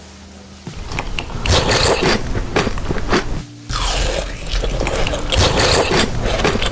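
Close-up biting and crunching while eating a crisp dessert, in dense irregular crunches that start after a moment of quiet and pause briefly about halfway through.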